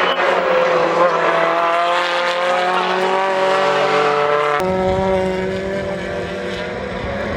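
BTCC touring cars' turbocharged four-cylinder engines running at speed on the circuit, their pitch rising and falling with throttle and gear changes. About four and a half seconds in, the sound switches abruptly to a deeper rumble.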